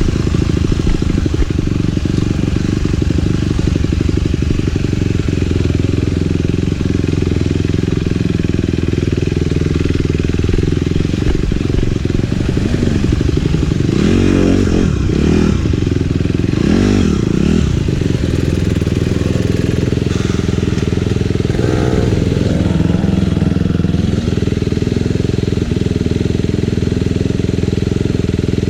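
Dirt bike engine running steadily under way, with the revs rising and falling a few times around the middle.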